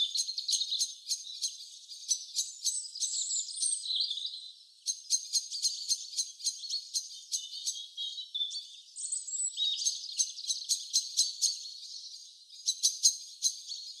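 Birdsong: rapid high chirps, about five or six a second, with short whistled notes over them and a brief pause partway through.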